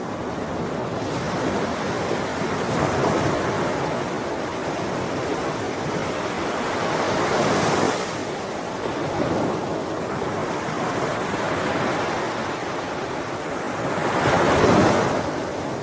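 Ocean waves breaking and washing on the shore in a continuous surf, swelling and ebbing, with the loudest wave breaking near the end.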